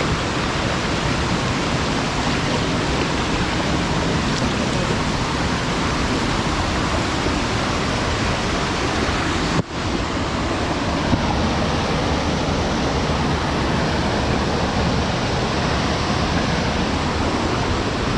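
Steady rushing of running water, with a very brief break a little past halfway.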